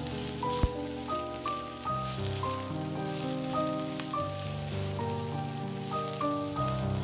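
Diced onion and garlic sizzling and crackling in hot oil as they are stirred with a silicone spatula, with one sharp tap about half a second in. Background music with a slow melody of held notes plays throughout.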